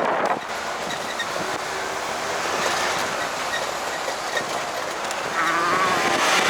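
Moped engine running under way with a steady rattle and wind noise; a pitched sound rises in near the end.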